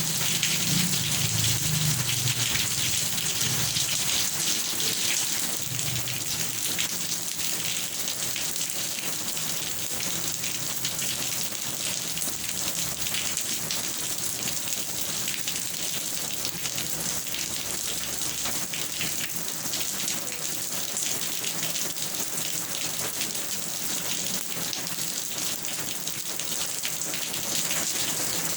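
Steady heavy rain falling on a surface: a dense patter of drops over an even hiss. A low rumble underneath in the first few seconds fades away.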